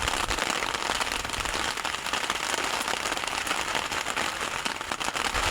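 Heavy rain pattering steadily, a dense crackle of countless small drop impacts.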